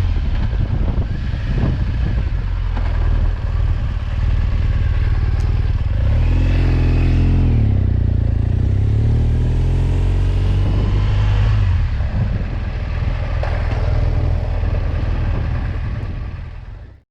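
BMW R1200GS boxer-twin motorcycle engine running while riding, under a steady rush of wind and road noise. The engine note drops and then climbs again about six to ten seconds in, and the sound fades away at the very end.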